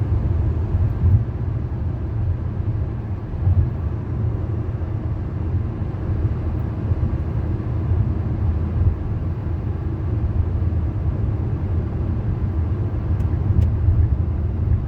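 Steady low rumble of a car on the road, even and unbroken.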